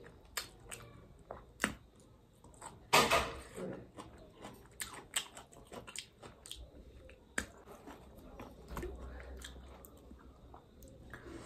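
Close-up chewing of veg chow mein noodles eaten with chopsticks, with many small clicks throughout and one louder burst of noise about three seconds in.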